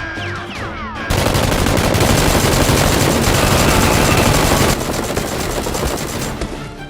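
Rapid automatic gunfire, a dense run of shots starting about a second in, loudest for about three and a half seconds and then carrying on more weakly, over background music.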